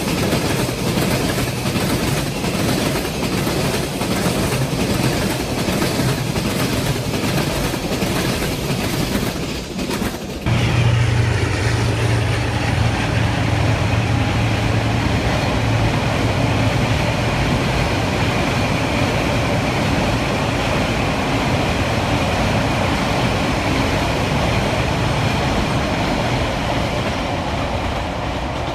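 Train passing close by. For the first ten seconds the wheels clatter in an even rhythm over the rail joints. After an abrupt change about ten seconds in, there is a steady heavy rumble with a low hum.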